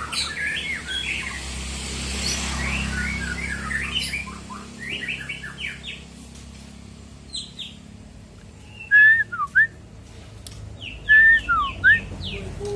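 White-rumped shama (murai batu) singing: a run of quick chirps and short sliding notes, then two loud bursts of clear whistled phrases in the second half.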